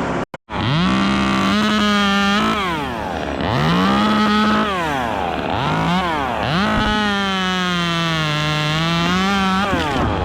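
Two-stroke chainsaw revved up to full throttle and let back down four times, the last run held about three seconds with its pitch sagging and recovering.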